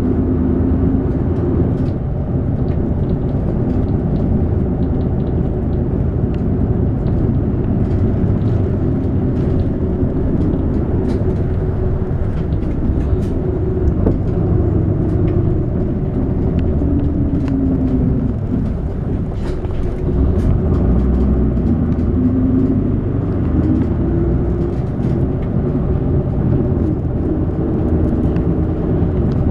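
City route bus running, heard from inside the cabin: a steady engine and road rumble, its engine note rising and falling several times as the bus drives on.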